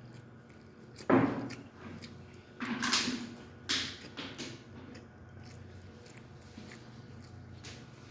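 Close-miked eating of chicken: sharp, noisy bites or crunches about a second in, near three seconds and near four seconds, with soft chewing and mouth clicks between.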